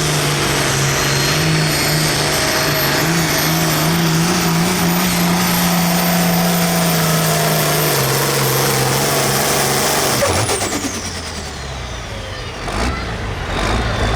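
International 1466 pulling tractor's turbocharged diesel running flat out under load, with a steady high turbo whistle over the engine note. About ten seconds in the throttle is cut: the engine note drops and the whistle winds down in a falling whine. Near the end the engine settles back to a lower running note.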